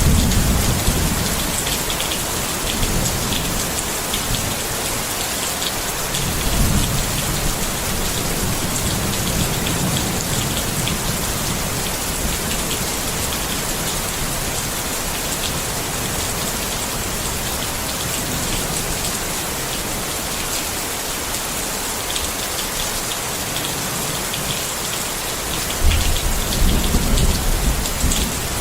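Steady rain falling on a tent, an even hiss of drops throughout. Low rumbles of thunder come at the start, again about seven seconds in, and more loudly near the end.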